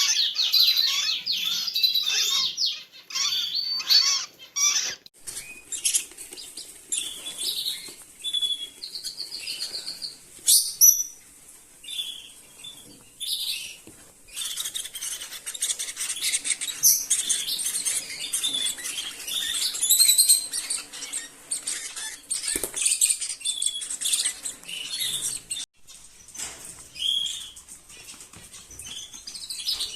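Rosy-faced lovebirds chirping and chattering, with quick runs of high, rapidly repeated notes and bursts of calls that come and go.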